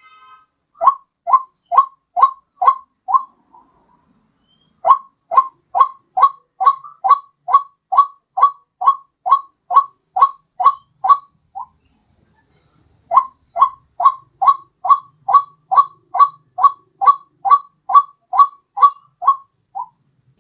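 White-breasted waterhen calls played as a bird-lure recording: short calls repeated about three a second, in three runs separated by pauses of about a second and a half.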